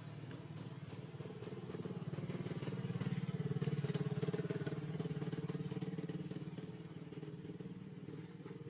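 A vehicle engine passing by: a steady engine drone that grows louder to a peak about three to four seconds in, then fades away.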